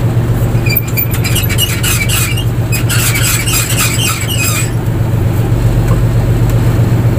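Fishing boat's engine running steadily, with a rapid run of squeaky, high-pitched clicks lasting about four seconds from about a second in.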